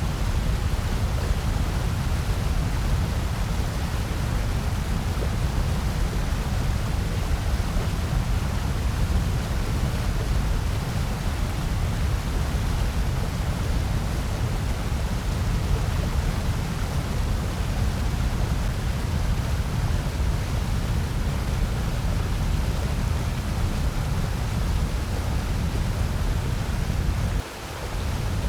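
Steady generated noise track, billed as white noise: an even, deep hiss with most of its weight in the low end. It dips briefly near the end.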